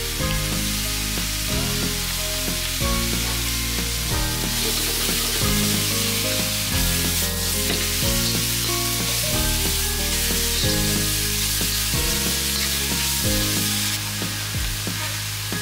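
Ground pork with onions and red bell pepper sizzling as it sautés in a wok over a high flame, with a metal ladle stirring it. Background music with a steady bass line plays throughout.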